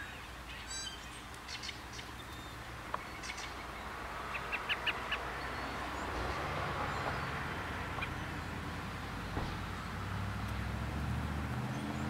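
A small bird chirping, with a few scattered calls and then a quick run of about five chirps midway. A low engine rumble builds underneath in the second half.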